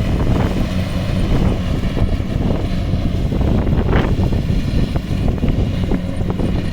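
Kubota rice harvesting machine's engine running steadily under load, with a brief sharp sound about four seconds in.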